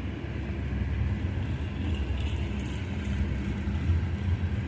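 Loaded oil train's tank cars rolling past: a steady low rumble of steel wheels on rail, with the hiss of pouring rain.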